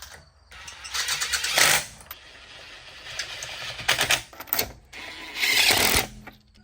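Impact wrench running in several short bursts, each a rapid hammering rattle, tightening the wheel's lug bolts as the wheels go back on.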